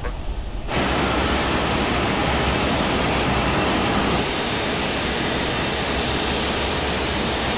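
A steady, loud rushing noise that cuts in abruptly about a second in, its hiss growing brighter about four seconds in.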